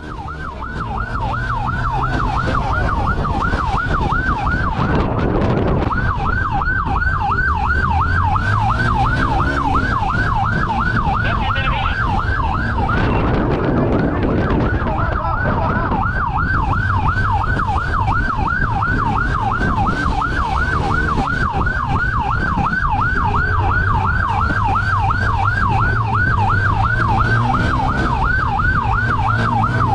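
Police siren sounding in a fast yelp, about four rising sweeps a second, over a vehicle's engine and road noise.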